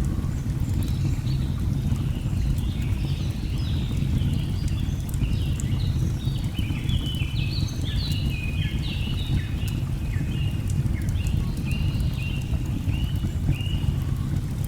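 A steady low rushing of a waterfall, with birds giving many short falling chirps over it, densest in the middle, and faint crackles of a wood fire.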